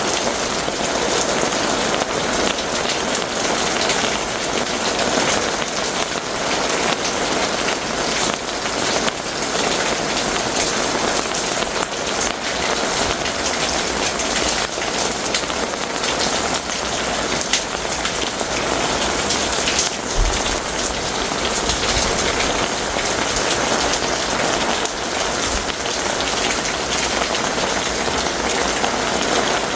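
Heavy rain pouring and pattering steadily in a downpour. About two-thirds of the way through there is a brief low thump and rumble.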